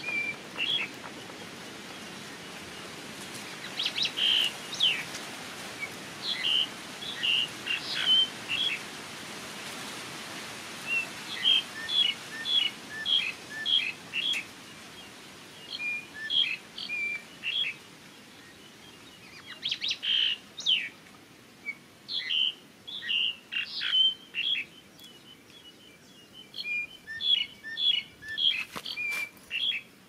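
Birds chirping: runs of short, high, quick notes, three to six at a time, with short pauses between runs.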